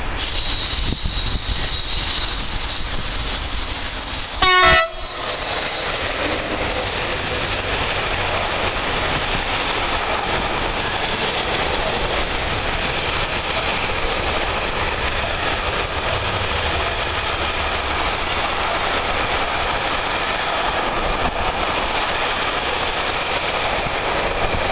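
Train passing by: a steady rush of wheels on rails, with one short, loud horn blast about four and a half seconds in.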